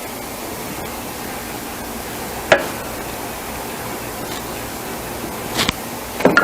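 Steady background hiss in a kitchen, broken by a sharp click about two and a half seconds in and a few light knocks near the end.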